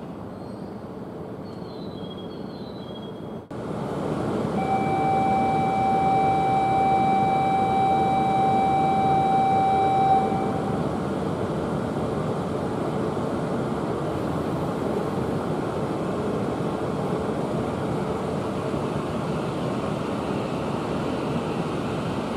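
E5 series Shinkansen train at a station platform. Faint wheel and brake squeals as it draws to a stop, then after an abrupt jump in level a steady tone sounds for about six seconds. An even rushing noise follows as the train pulls out.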